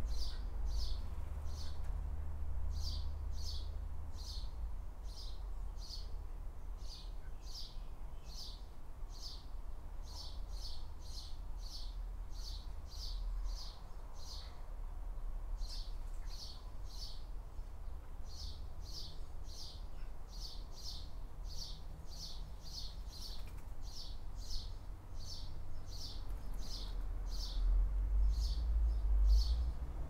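A bird calling over and over: short high-pitched calls at about two a second, with a few brief pauses. A steady low rumble runs underneath.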